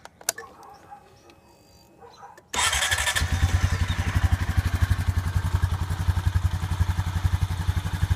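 A click, then about two and a half seconds in the single-cylinder engine of a 2016 Honda Rancher 420 ATV starts and settles into a steady, evenly pulsing idle, just after an oil change to fresh oil; it sounds great.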